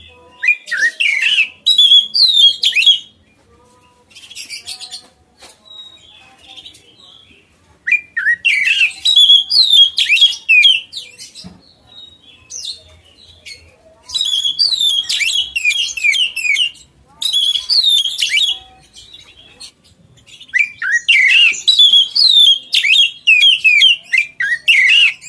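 Songbird singing vigorously in four bursts of rapid, chattering and whistled notes, each burst a few seconds long with short pauses between them.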